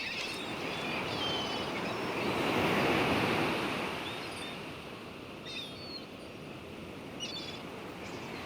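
Sea surf washing on the beach, one wave swelling to its loudest about three seconds in and then easing off, with a few faint, short high bird calls over it.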